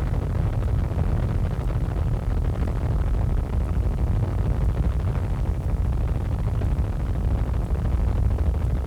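Helicopter engine and rotor noise: a steady low rumble.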